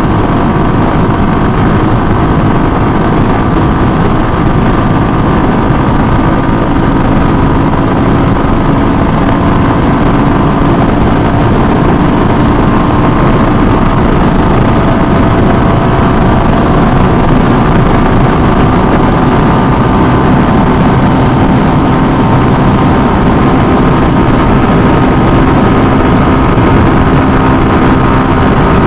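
A motorcycle cruising at a steady speed on an open highway. The engine note holds steady under loud wind rush on the microphone.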